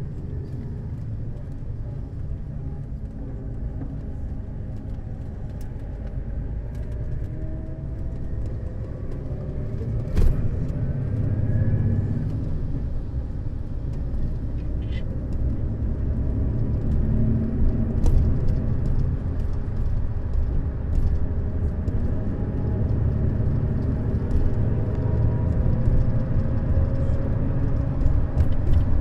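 Neoplan Skyliner N 1122/3C double-deck coach under way: a steady engine and road rumble that grows louder through the second half, with the engine tones slowly rising in pitch. There is a sharp knock about ten seconds in.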